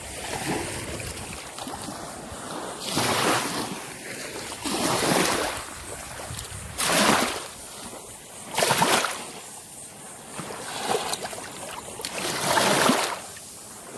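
Small waves washing and splashing at the shoreline, about once every two seconds.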